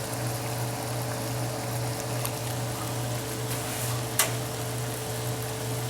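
Chicken thighs simmering in a pan of wine and vegetables, a faint steady bubbling hiss over a constant low hum. Two brief clicks about two and four seconds in.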